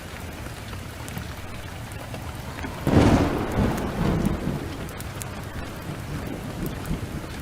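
Heavy rain falling steadily, with a sudden thunderclap about three seconds in that rolls off in rumbles over the next couple of seconds. Scattered sharp crackles of a wood fire run through it.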